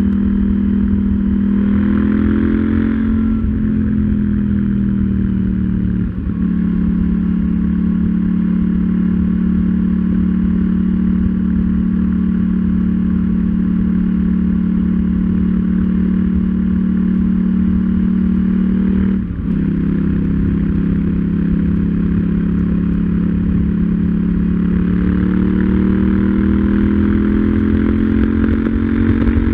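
KTM 790 Duke's parallel-twin engine under way at a steady cruise. The engine note falls over the first few seconds. It breaks briefly about six seconds in and again about nineteen seconds in, each time settling to a lower steady note, like quick upshifts. It rises again near the end as the bike accelerates.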